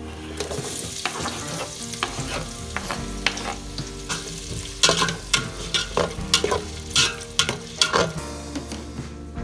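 Garlic and chopped onions sizzling as they fry in oil in a metal pot, with a wooden spoon stirring and scraping against the pot, which knocks several times in the second half.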